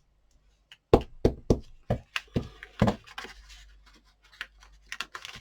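Hands pressing and patting a glued paper scrap down onto a collage on a tabletop: a run of irregular knocks and taps, about seven in quick succession, then a few softer taps near the end.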